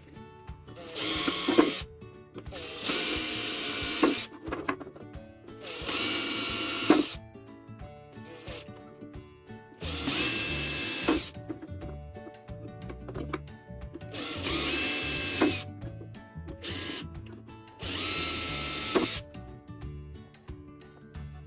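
Power drill running in seven short bursts of about a second each, its motor whine starting and stopping abruptly, with background music.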